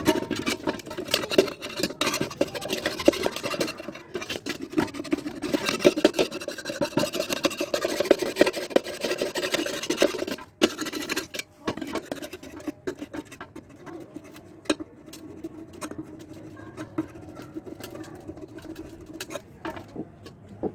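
Hand rubbing and scraping on a Honda CD 70 engine side cover, a rough abrasive scratching with clicks: heavy for about the first half, a short break around the middle, then lighter strokes.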